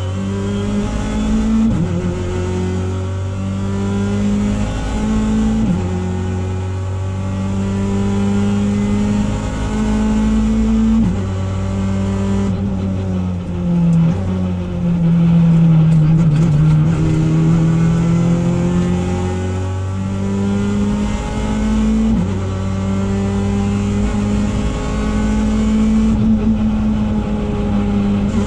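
Opel Adam rally car's engine heard from inside the cockpit, driven hard on a rally stage. The revs climb and drop sharply at each upshift, and about halfway through they fall away and come back up in a slow curve.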